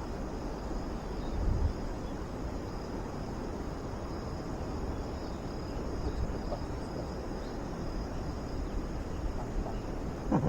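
Outdoor night ambience: a steady high trill of crickets over a low, even background rumble, with a brief low thud about a second and a half in.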